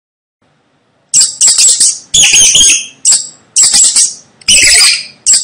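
Mouse squeaking: a run of loud, shrill squeaks in quick bursts, about six of them, starting about a second in.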